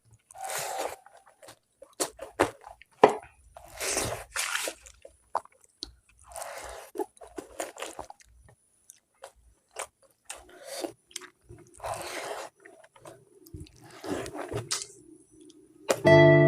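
Close-up eating sounds: biting, crunching and chewing food in short, irregular bursts with pauses between. Strummed acoustic guitar music comes in near the end.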